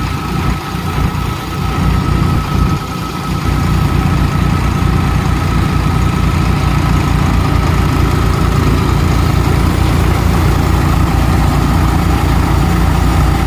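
Swaraj 735 tractor's diesel engine running a cutter thresher, with a steady high whine above the engine. The engine runs unevenly for the first few seconds, then settles into a steadier, louder run about four seconds in.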